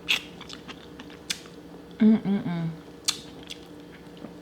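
Close-up eating sounds of boiled blue crab: sharp cracks and clicks of shell being bitten and picked apart, with chewing. A short hummed vocal sound comes about two seconds in.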